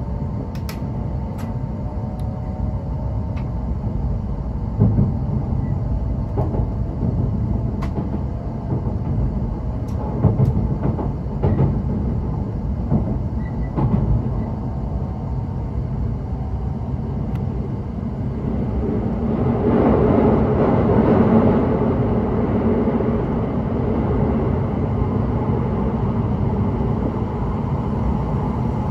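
Cabin running noise of an E7 series Shinkansen under way, heard from inside the car: a steady low rumble with scattered short knocks, and a faint whine that fades in the first few seconds. A louder rushing swell rises about twenty seconds in and eases off a few seconds later.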